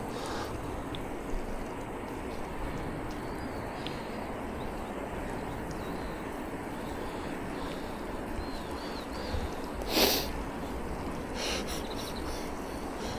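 Steady rushing outdoor noise on a bicycle ride, with a few faint bird chirps, and a short loud rush of noise about ten seconds in.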